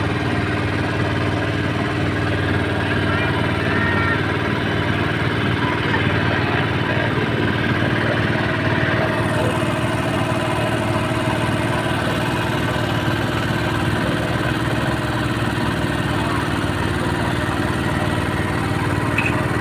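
An engine running steadily at an even speed, with a fast low pulsing.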